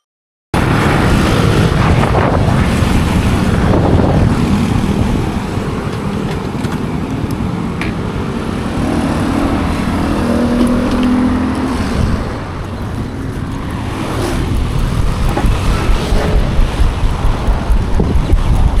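Loud motorbike riding noise: engine and road rumble with heavy wind buffeting on the microphone. It eases off briefly partway through, then builds again with a quick pulsing near the end.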